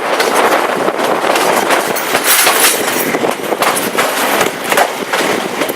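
Passenger train running along the track: steady rattling noise with many quick clicks of the wheels over the rails.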